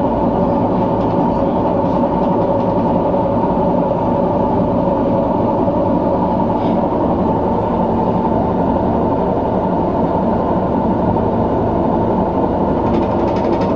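Washing machine running with a loud, steady drone and a constant whine in it.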